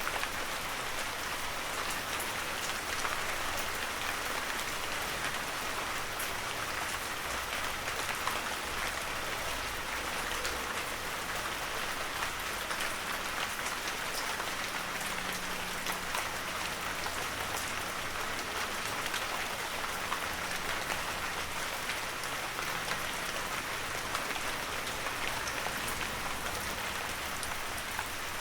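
Heavy rain falling steadily on a forest, a dense even hiss of drops with scattered sharper drop ticks.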